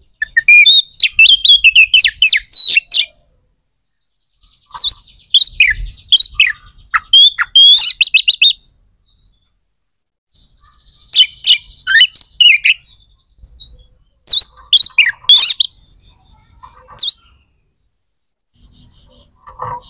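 A small bird chirping and twittering close up, in quick high-pitched runs that come in bouts of a few seconds with silent gaps between them.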